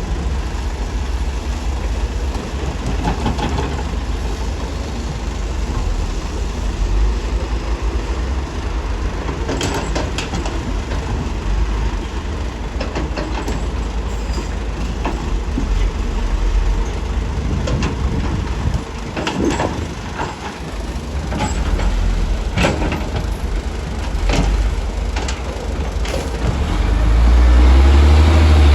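Diesel engines of heavy earthmoving machinery running with a steady low rumble, with irregular sharp knocks and clanks through the middle and a rise in engine loudness near the end.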